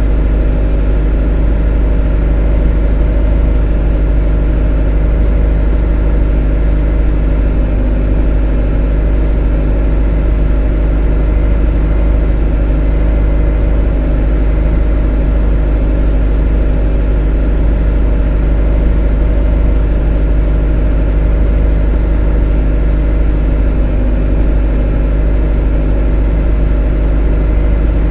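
A motor running steadily at a constant speed: a loud, deep, even drone with a hum of steady tones over it, unchanging throughout.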